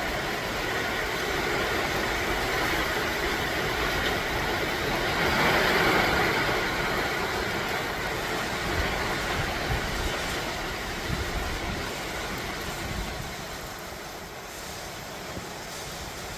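Heavy wind-driven rain pouring down in a steady rush. It swells about five seconds in and eases off near the end.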